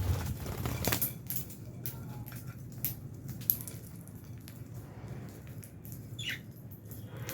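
Lovebirds in an aviary, albino and Fischer's, cracking and husking seeds: scattered sharp crunching clicks, with one short chirp falling in pitch about six seconds in, over a steady low hum.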